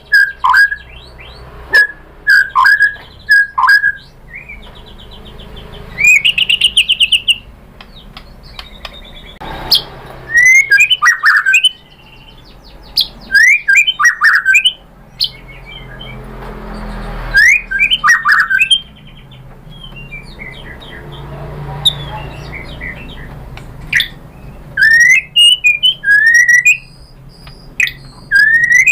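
White-rumped shama (murai batu) singing its varied song in loud phrases of sweeping whistles, sharp chirps and fast rattling trills, with short pauses between them.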